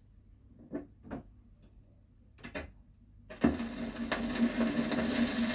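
A few soft clicks as the Decca SRG600 radiogram's record deck is set going. About three and a half seconds in, a steady hiss with a low hum starts: the stylus running in the record's lead-in groove just before the music.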